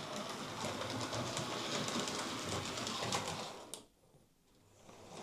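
Hornby OO gauge model steam locomotive running on the layout: a steady motor whirr with the wheels clicking over rail joints and points. The sound cuts out for about a second near the end.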